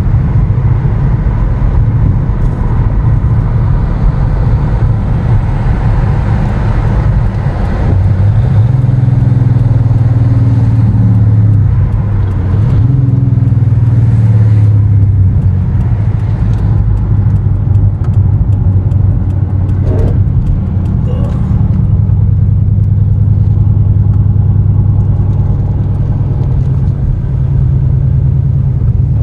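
Engine and road noise heard from inside a moving vehicle's cab: a steady low drone that swells louder between about 8 and 15 seconds in.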